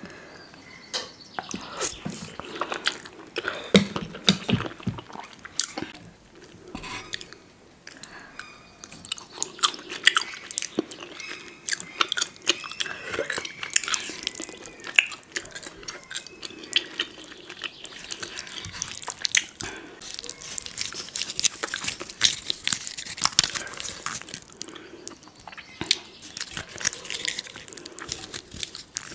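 Close-miked chewing and biting of noodles and toppings: a steady run of irregular wet clicks and smacks of the mouth.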